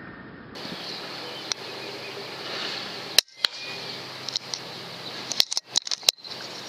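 Small birds chattering and chirping, with several sharp clicks; the sound cuts out briefly twice.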